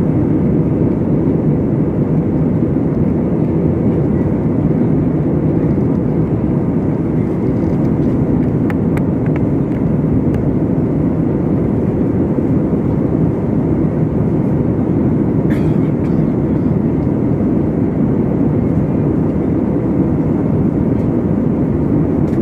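Steady cabin noise of an airliner in flight: a loud, even low rumble of engines and rushing air that does not change. A couple of faint clicks come about nine and fifteen seconds in.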